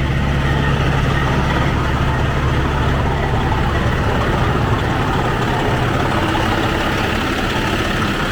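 Heavy semi-truck diesel engine idling steadily.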